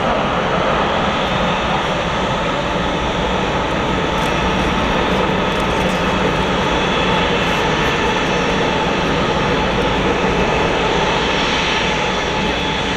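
Boeing 747-400F freighter's four jet engines running at takeoff power: a loud, steady jet roar with no change in level.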